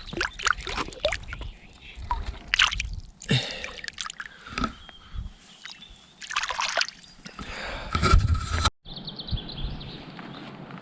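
Water splashing and sloshing in short, irregular splashes, mixed with sharp clicks and knocks of handling at the water's edge; an abrupt cut near the end gives way to a quieter stretch.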